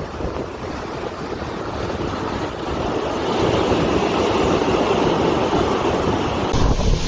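Steady rushing noise of wind and surging seawater, growing louder about three seconds in.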